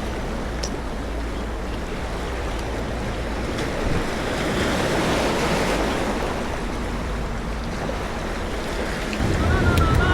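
Sea surf washing against the shore: a steady rushing noise that swells and eases.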